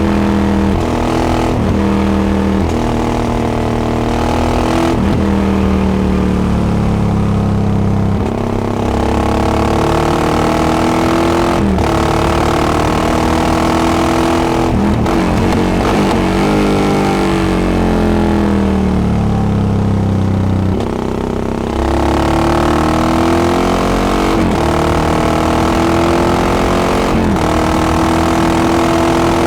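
Yamaha XT660X single-cylinder engine through a Devil carbon exhaust, ridden on the road: the revs rise and fall over and over as it accelerates through the gears, with short breaks at each gear change. The engine speed drops off briefly about eight seconds in and again around twenty-one seconds.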